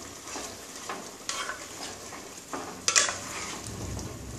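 Chicken pieces sizzling in hot oil in a pot while a wooden spatula stirs and turns them, scraping and knocking against the pot several times, the sharpest knock about three seconds in.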